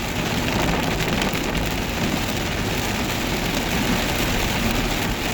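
Heavy rain pouring down steadily onto a car, heard from inside it.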